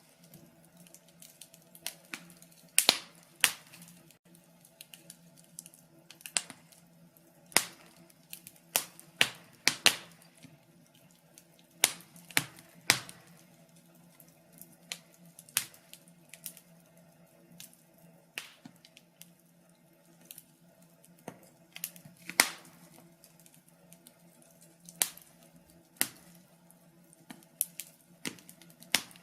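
Wood fire crackling in a fireplace: irregular sharp pops and snaps, a few loud ones among many faint ones, over a faint steady low hum.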